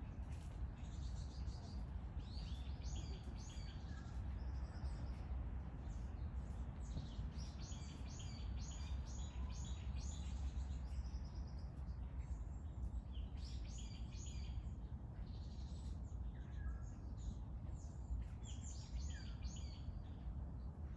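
Small birds singing in the woods: four bouts of rapid, high chirping trills, with a few short falling whistles in between, over a steady low rumble.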